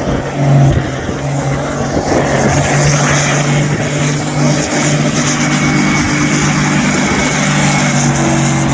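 Competition pulling tractor's engine under full load as it hauls the sledge: a loud, steady deep note held at high revs, with a thin high whine above it.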